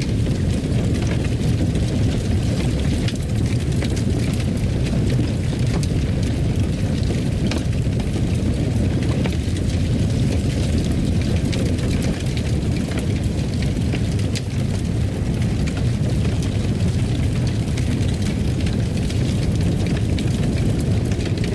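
A fire burning in a fireplace: a steady low rumble with small crackles and pops scattered throughout.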